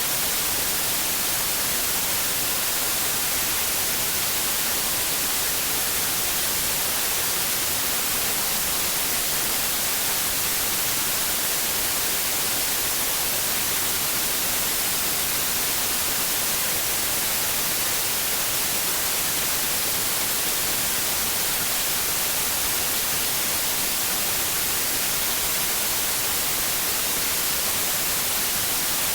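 Steady white noise for infant sleep: an even hiss, brightest in the high frequencies, unchanging in level.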